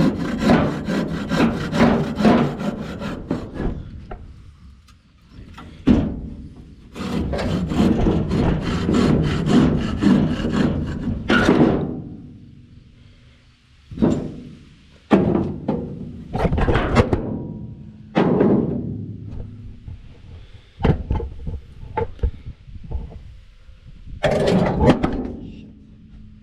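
Hand saw cutting through wood in runs of quick back-and-forth strokes, broken by pauses. The first two runs are long and the later ones are short.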